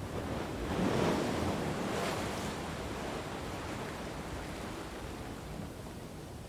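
Ocean surf: a wave breaks about a second in, surges again shortly after, and washes out slowly.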